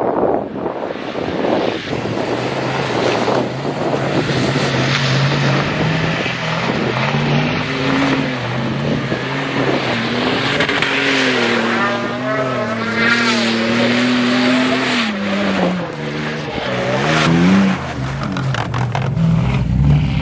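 Vehicle engine running under way, its pitch rising and falling as it speeds up and changes gear, with a long rev up and back down about two-thirds of the way in, over steady road and wind noise.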